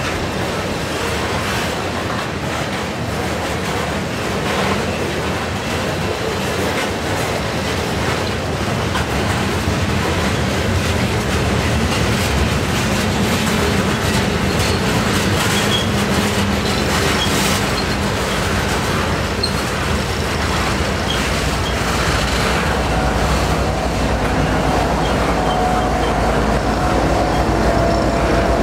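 Freight train of tank cars and flatcars rolling slowly past: a steady rumble of steel wheels on rail with scattered clacks. In the last quarter a low diesel locomotive drone grows in and a steady tone sets in as the locomotive draws near.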